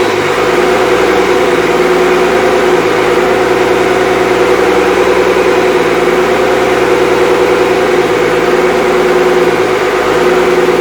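Freshly rebuilt Cummins 5.9L 12-valve inline-six diesel running at a steady, unchanging speed.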